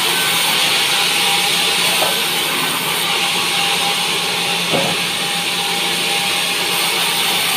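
Band sawmill running steadily through pine, a continuous saw noise with a constant hum, with a short knock about five seconds in.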